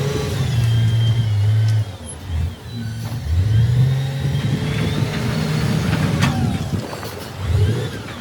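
Diesel engine of heavy earthmoving machinery revving and easing off in surges, its note rising about three seconds in, with a sharp knock about six seconds in.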